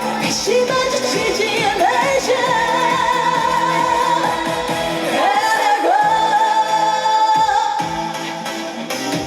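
A female singer performs a dance trot song live, holding long notes that slide up into pitch, over a band backing track with a steady kick-drum beat.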